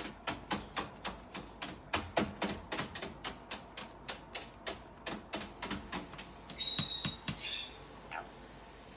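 Rapid sharp tapping, about three to four taps a second, for most of the first six and a half seconds, then a brief high whistle and a faint rising chirp, from a pet caique parrot.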